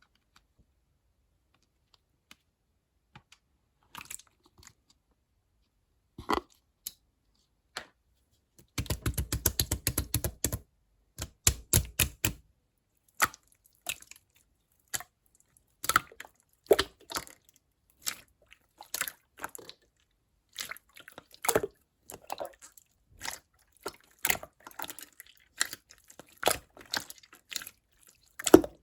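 Clear slime being squeezed and pressed by hand, giving wet clicks and pops. It starts almost silent with a few scattered pops, has a quick run of rapid clicks about nine seconds in, then carries on with irregular pops and squelches.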